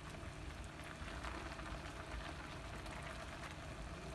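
Chicken pieces simmering in yogurt and their own released juices in a pot: a steady crackling, bubbling hiss with a low hum underneath.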